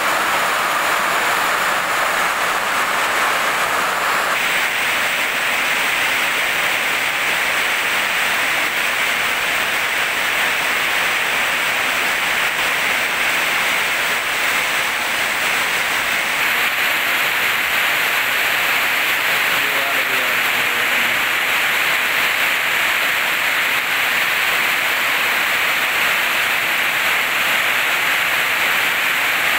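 Heavy tropical rain pouring steadily and drumming on corrugated metal roofing, heard as a dense, even hiss. Its tone shifts abruptly about four seconds in and again about halfway through.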